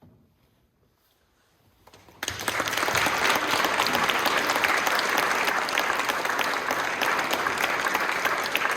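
About two seconds of near hush, then an audience starts applauding suddenly and keeps up steady, dense clapping.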